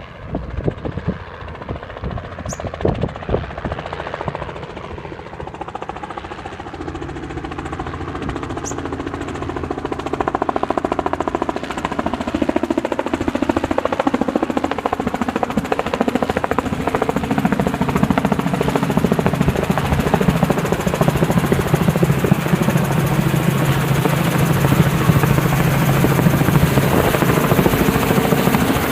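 Robinson helicopter approaching and coming in to land, its engine and rotor growing steadily louder, with gusts of wind on the microphone in the first few seconds.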